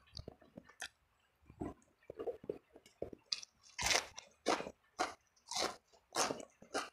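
Close-miked mouth chewing and crunching of food, with a run of crisp crunches about twice a second in the second half.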